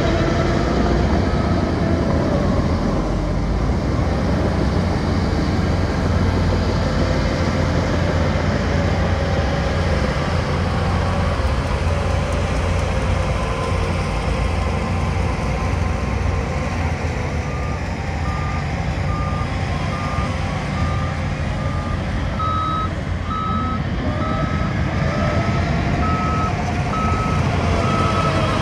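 Heavy diesel earthmoving machinery running steadily with a deep engine drone. About two-thirds of the way in a reversing alarm starts beeping at a steady pace, faint at first and then louder near the end.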